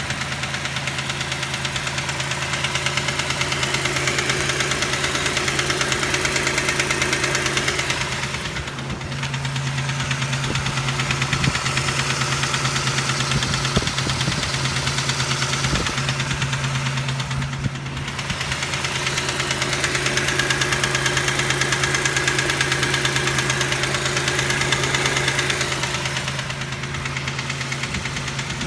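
Toyota 3VZ-E 3.0 V6 in a 1989 4Runner running with a steady, rhythmic knock, which seems to come from the upper front of the engine. The owner guesses a bent connecting rod or a spun rod bearing. The engine gets a little louder for a few seconds, three times.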